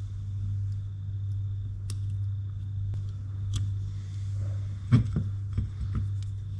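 Small metal fishing-reel parts being handled and fitted, giving a few light clicks and then a short cluster of knocks about five seconds in, over a steady low hum.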